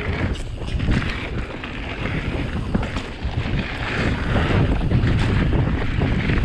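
Wind buffeting the microphone and a low rumble from an e-bike riding down a forest trail, with scattered knocks and rattles; it gets louder about halfway through as speed picks up.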